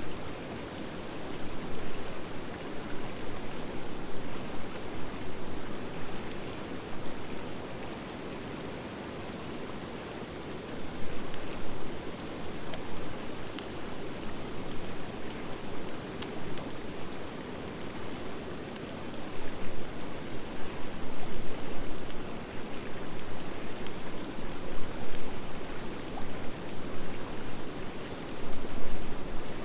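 Wood fire of driftwood and dry hardwood burning: a steady rushing sound of the flames that swells and eases, with scattered sharp crackles and pops from the wood.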